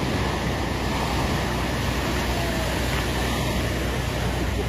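A steady rushing noise with a deep rumble underneath.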